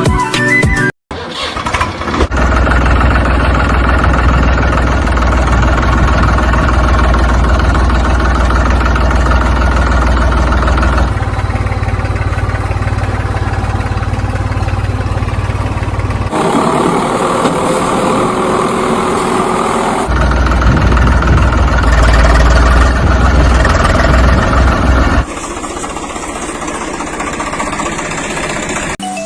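An engine running steadily with a strong low hum, its sound changing abruptly several times.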